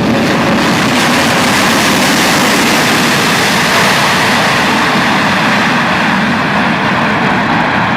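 Airplane engines running loud during a landing on a short runway, a steady rushing noise without a break.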